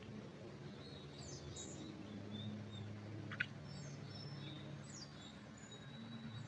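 Small birds chirping in a pine forest: scattered short, high chirps and whistles, with one sharp click about halfway through, over a low steady hum.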